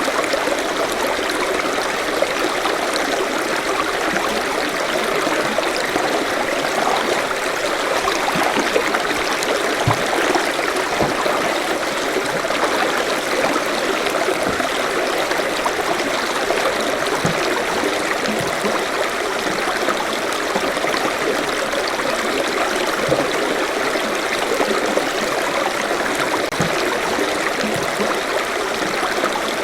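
Forest stream flowing and babbling steadily over rocks, with small scattered gurgles and plops.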